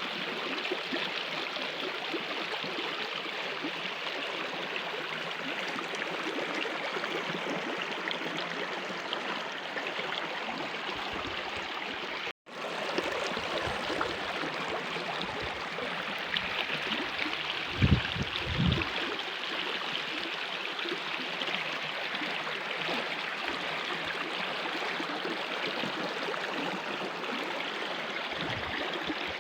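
Mountain stream water rushing and gurgling steadily, with a brief break about twelve seconds in and a low thump about eighteen seconds in.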